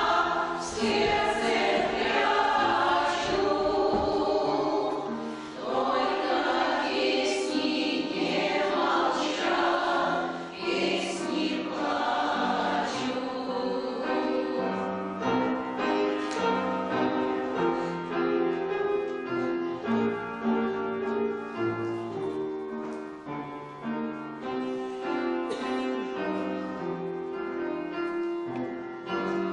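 Choir of elderly amateur singers singing with instrumental accompaniment. About halfway through, the voices drop out and the accompaniment plays on alone in steady held notes.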